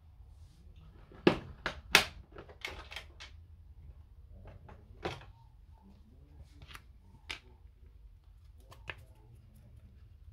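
A scatter of sharp clicks and knocks from hard parts and tools being handled while taking apart a Time Capsule. The two loudest come about a second and two seconds in, with fainter ones after, over a low steady hum.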